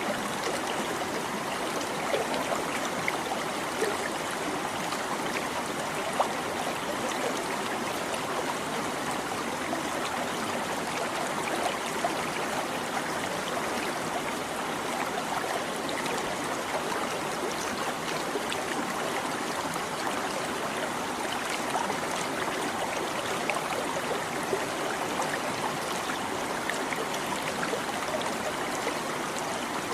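Babbling stream: water flowing steadily and trickling, with small splashes scattered through it.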